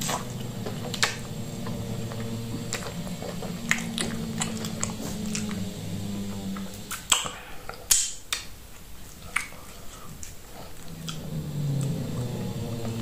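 Close-up wet eating sounds of fufu and soup eaten by hand: chewing, lip smacks and sucking on fingers, with sharp wet clicks scattered through, the loudest about seven and eight seconds in. A low steady hum runs underneath.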